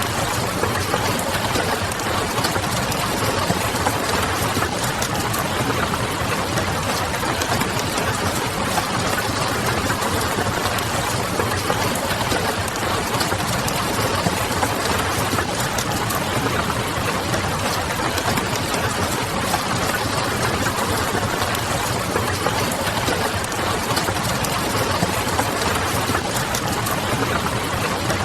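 Steady rain with the scattered crackle of a wood fire and a low, constant hum like distant city noise, blended as one continuous bed of sound.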